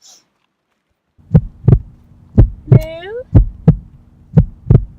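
Heartbeat sound effect: loud paired lub-dub thumps about once a second over a steady low hum, starting about a second in.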